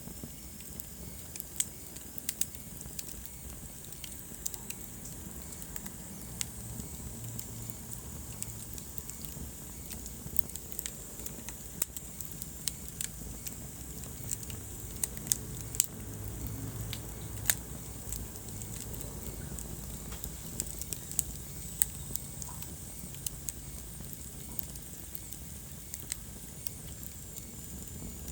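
Wood fire burning in a fireplace: irregular sharp crackles and pops, a few of them loud, over the steady low rumble of the flames.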